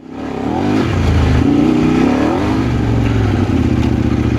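Kove 800X Pro adventure motorcycle's parallel-twin engine running under way, its pitch rising and falling with the throttle. The sound fades in over the first half second.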